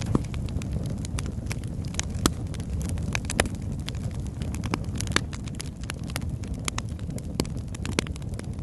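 Wood fire burning in a fireplace: a steady low rumble of flames with irregular sharp crackles and pops from the logs, a few of them loud.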